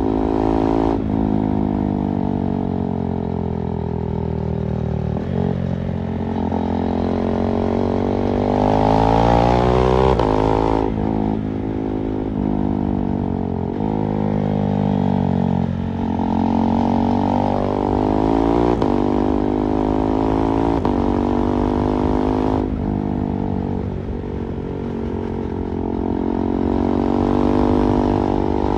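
KTM 390 Duke's single-cylinder engine under way, its pitch climbing as it revs up through each gear and dropping sharply at each gear change, several times over, with the hardest revving near the middle and near the end.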